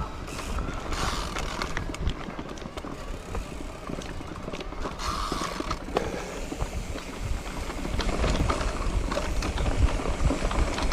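Mountain bike riding down a rough dirt trail: tyres rolling over dirt and roots, and the bike rattling and clicking over bumps, with wind buffeting the microphone.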